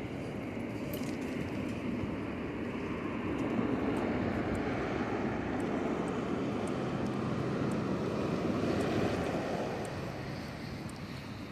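Rushing wind and road noise while cycling, building to a broader rush over a few seconds in the middle and easing off again near the end, with a few faint ticks.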